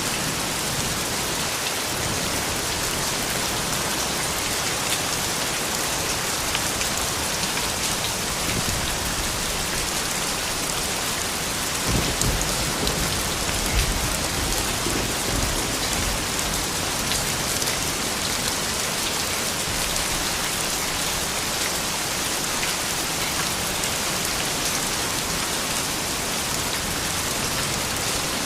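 Steady rain falling, a dense even hiss with fine patter of drops. About twelve seconds in, a low rumble of thunder swells for a few seconds and fades.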